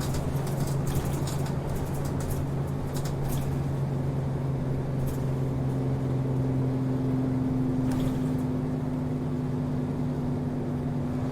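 City route bus driving, heard from inside the passenger cabin: a steady diesel engine drone whose note rises slightly about halfway through, with light rattles now and then.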